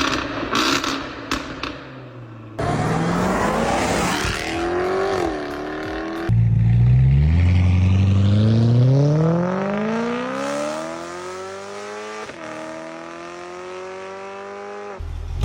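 V8 supercar engines in a run of short clips. The first has a few sharp cracks over a revving engine. Then cars accelerate hard, the engine note climbing steadily and dipping briefly at each upshift, about five seconds in and again about twelve seconds in.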